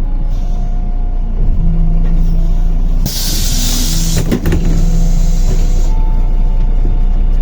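MAZ-105 city bus running, its diesel engine droning low, with a sharp hiss of released compressed air from the bus's pneumatics about three seconds in, lasting about a second, followed by a few knocks.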